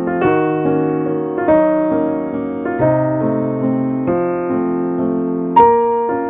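Background piano music: slow sustained chords, a new one struck every second or so and left to fade, with a louder chord near the end.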